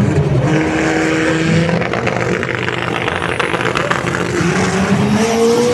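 Motorcycle engine running and being revved, its pitch holding steady and then rising near the end.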